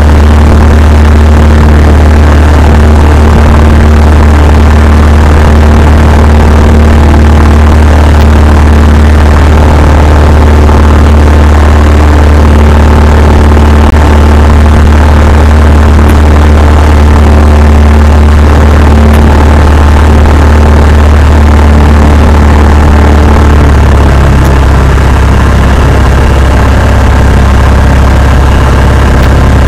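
Cessna 172's piston engine and propeller droning steadily and loudly, heard from inside the cabin. About 24 seconds in the low hum shifts, as the engine settles at a different power setting.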